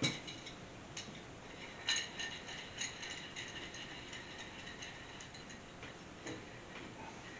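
Light metallic clicks and clinks of hand tools being handled, sockets and wrenches knocking together, with a small cluster about two seconds in and fainter scattered ticks after.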